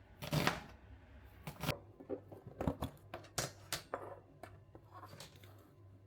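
Kitchen food preparation: a sharp knock just after the start, then light, irregular clicks and knocks of ingredients being handled and cut.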